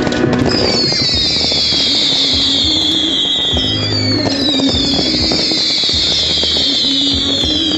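Fireworks going off in a display, with many crackles and bangs, over music. A high, falling whistle comes about every three seconds.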